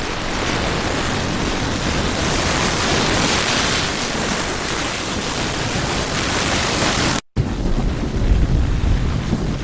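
Steady rushing of heavy water and wind noise, cut off abruptly about seven seconds in. It is followed by a louder, uneven deep rumbling.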